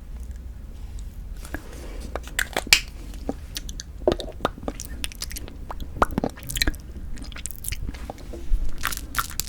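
Close-miked mouth sounds of eating Kiri cream cheese and frozen chapssal-tteok (ice rice cake): biting and chewing, with many short, sharp, wet clicks and crackles coming irregularly from about a second and a half in.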